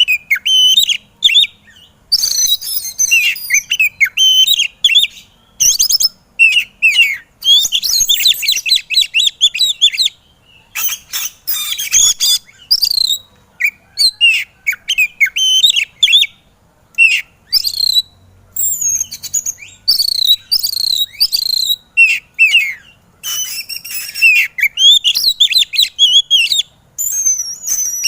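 Oriental magpie-robin (kacer) singing hard and agitated: rapid, varied phrases of whistled notes, chirps and trills with only brief pauses between them.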